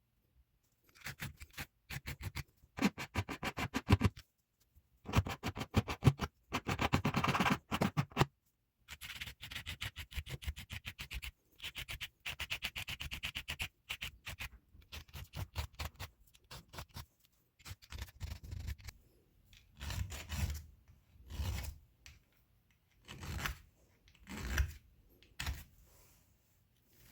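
Hand abrading of a bike part: rapid back-and-forth rubbing and scraping strokes in bursts of a few seconds with short pauses between, turning into shorter, separate strokes in the second half.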